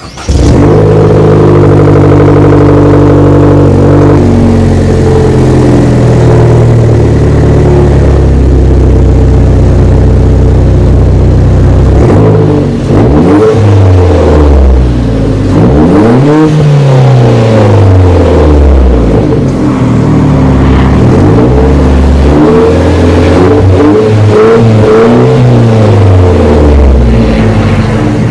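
Chevrolet Cruze 1.4 L turbo four-cylinder through a Flowmaster cat-back exhaust. For about twelve seconds the engine runs at a steady speed. It is then revved repeatedly, the exhaust note rising and falling with each blip.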